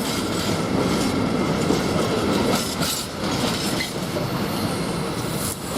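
A train of empty freight wagons rolling steadily past on the rails.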